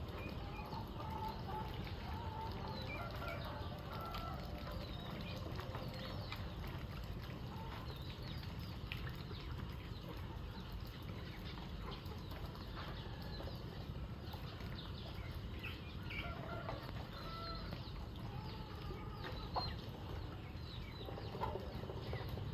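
A flock of chickens clucking at feeding time, many short calls overlapping, over a steady low rumble.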